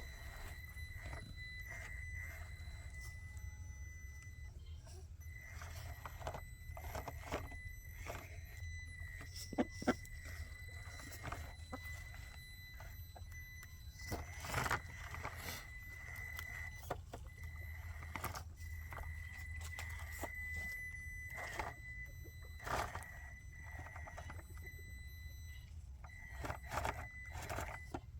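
Traxxas TRX4M RC rock crawler driving over rocks: a faint high electric-motor whine that comes and goes with the throttle, with scattered clicks and knocks of tyres and chassis on rock.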